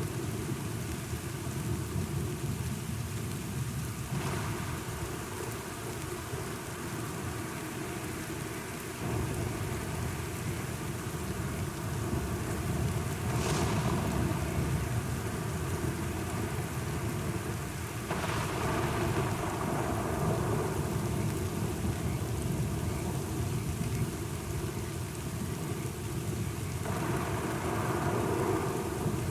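Thunderstorm: steady rain falling, with thunder rumbling low underneath and several rolls of thunder swelling up through it.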